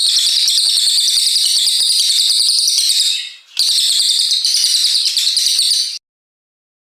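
A brown cililin songbird singing a long, high-pitched run of rapid repeated notes. It breaks off briefly about three and a half seconds in, resumes, and cuts off suddenly near the end.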